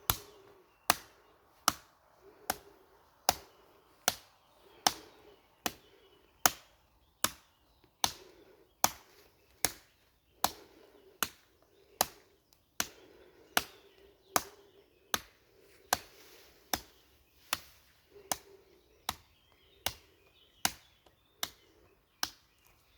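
Sharp, hard impacts repeated at a steady pace, a little more than one a second. These are the strikes of a body conditioning drill, repeated as a set of reps.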